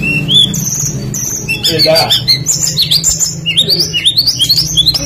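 Songbird singing a busy string of short, rising whistled notes that come faster in the second half, over a steady low hum.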